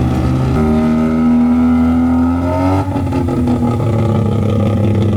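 A vehicle engine running loud. Its pitch climbs slowly for about two seconds, then drops back and holds steady.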